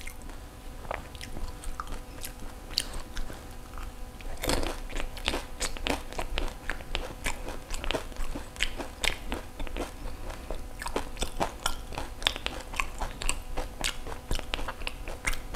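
Close-up crunching of a crisp fried pani puri shell being bitten and chewed, with a loud crunch about four and a half seconds in, followed by many quick crackling crunches as it is chewed.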